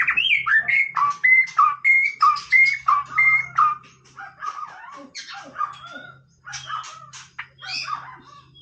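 White-rumped shama singing: a fast string of clear whistled phrases that slide up and down, giving way about halfway through to quieter, more varied chattering and harsher notes.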